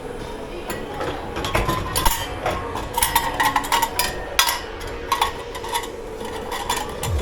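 Dishes and cutlery clattering and clinking as they are handled and stacked, many short knocks in an irregular run, over a steady background hum.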